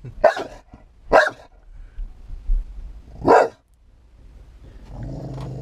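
Dog barking at the truck-wash spray and brush from inside a truck cab, with three loud barks in the first few seconds. A low steady hum starts up near the end.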